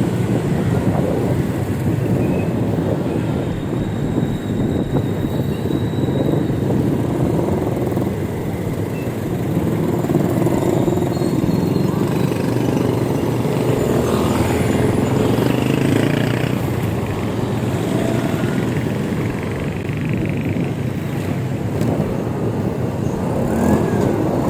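Steady rush of wind and road noise while riding an electric bike along a road, with motor-vehicle traffic mixed in.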